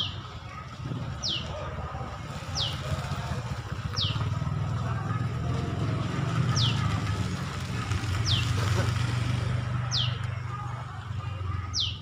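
A bird repeating a short, high chirp that sweeps downward, about once every one and a half seconds, over a steady low rumble that stops abruptly near the end.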